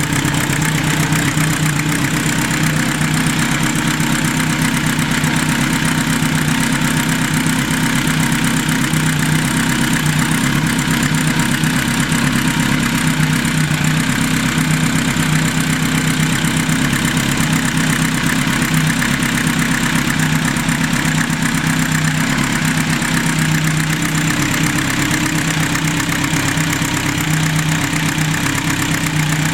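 Kawasaki Z2's air-cooled inline-four engine idling steadily on Mikuni TMR flat-valve carburettors, with the light clattering typical of flat-valve carbs over an otherwise quiet-running engine.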